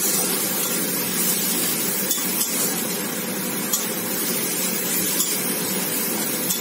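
Onion and spice paste frying in oil in a kadai, a steady sizzle, with a few light scrapes and clicks as a spatula stirs it.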